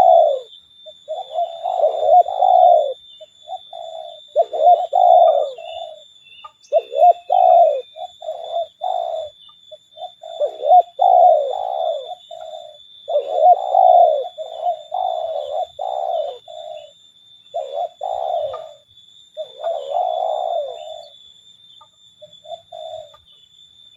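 Spotted doves cooing over and over in short repeated phrases, thinning out near the end. A faint steady high-pitched whine runs underneath.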